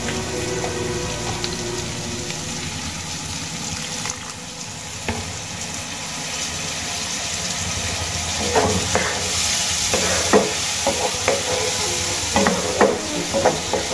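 Diced potatoes and ground spices sizzling in oil in a non-stick kadai. From about eight seconds in, a spatula stirs and scrapes them around the pan in short, repeated strokes.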